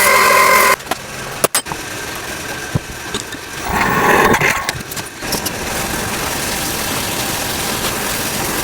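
Tattoo machine built from railroad-tie nails buzzing steadily, then cutting off about a second in. A few sharp clicks follow, then a short burst of buzzing around four seconds in, and a steady hiss for the rest.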